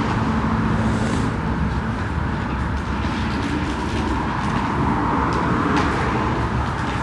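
Steady mechanical rushing noise, with a low hum that fades out about a second in and a few light clicks.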